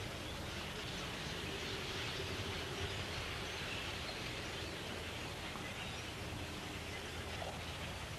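A large flock of blackbirds calling all at once, a dense steady chatter with no single bird standing out.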